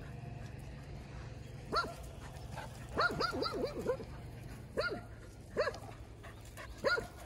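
A dog giving short, high yipping barks during rough play: one yip, then a quick run of about five, then single yips about a second apart.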